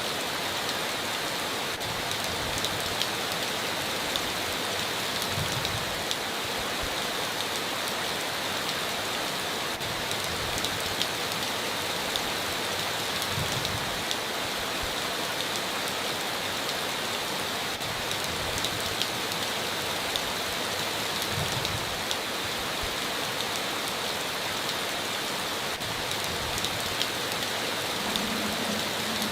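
Steady heavy rain drumming on a tin roof, an even hiss with many scattered drop clicks.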